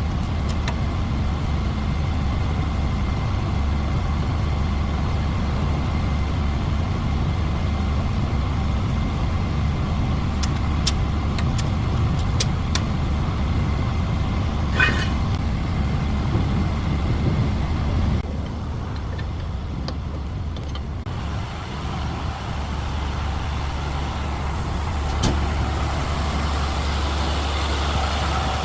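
Heavy truck engine running steadily with a low, even rumble. A few sharp clicks come around the middle and again near the end, and a brief rattle comes about halfway through.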